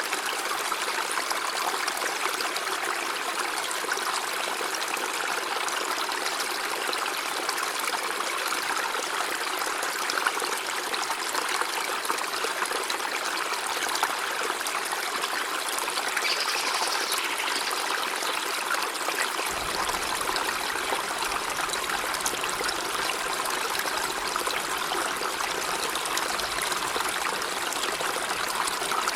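River water running steadily, an even rushing hiss; about twenty seconds in, a deeper low rumble joins it.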